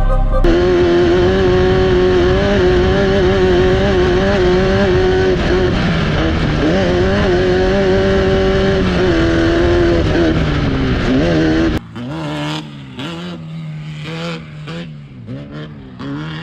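Off-road race car engine running hard at high revs, its pitch wavering up and down with the throttle. About twelve seconds in it drops suddenly to a quieter engine note with scattered knocks and rattles.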